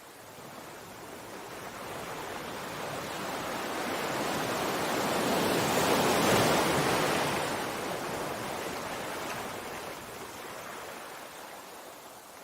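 Sea waves: one wave's wash of surf swells slowly, peaks about halfway through and then recedes.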